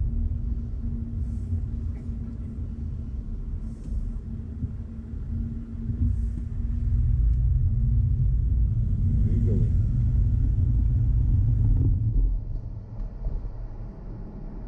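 Car driving along, with a steady low engine and road rumble that grows louder about halfway through and eases off again near the end.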